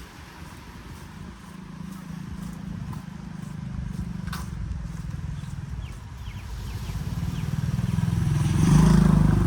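A motor vehicle's engine running, getting louder near the end as it comes closer, with a single sharp click about four seconds in.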